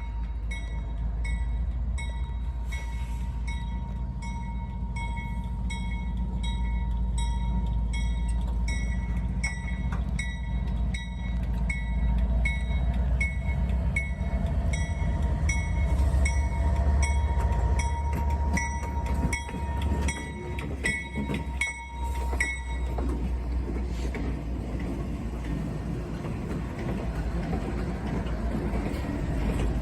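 Diesel locomotive rumbling through a rail yard with its bell ringing about twice a second, the bell stopping about three-quarters of the way in. A steady high whine runs alongside the bell.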